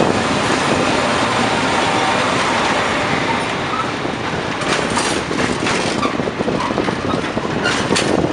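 A freight train's wagons rolling past on the rails behind an electric locomotive, a steady rumble of wheels on track. From about halfway there are sharp clicks as the wheels cross rail joints.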